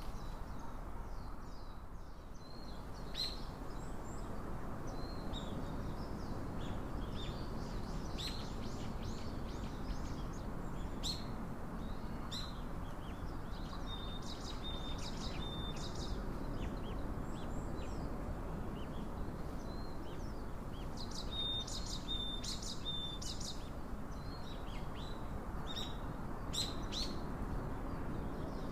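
Small songbirds chirping and calling on and off, with short high chips and two brief runs of rapidly repeated notes, over a steady low background noise.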